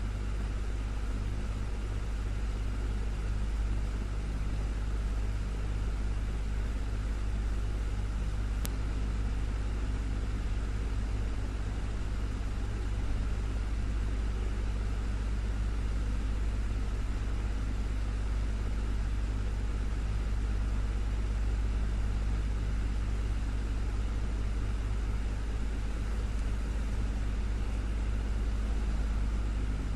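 Desktop electric fan running steadily, a continuous low hum with an even airy rush, and one faint tick about nine seconds in.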